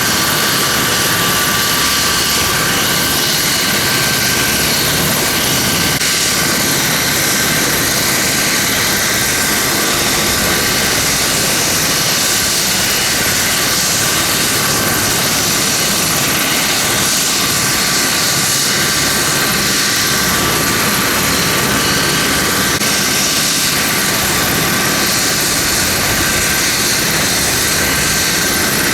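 Leonardo AW249 Fenice attack helicopter flying: a loud, steady rush of rotor and engine noise with several high, steady turbine whine tones over it.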